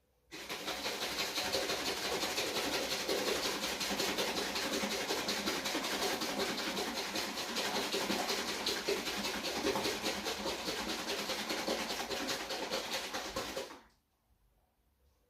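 A loud, steady hiss that starts suddenly and cuts off suddenly after about thirteen seconds.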